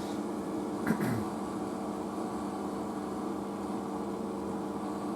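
Asko front-loading washing machine spinning steadily during a rinse spin, its drum motor giving a steady hum. A single knock about a second in.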